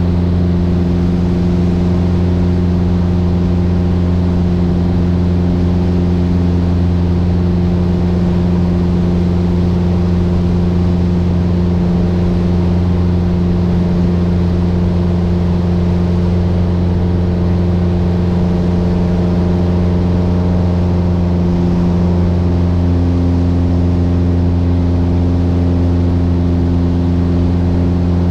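Mooney M20J's four-cylinder Lycoming IO-360 engine and propeller heard inside the cabin, a loud steady drone holding an even pitch. One of its tones shifts slightly about 23 seconds in.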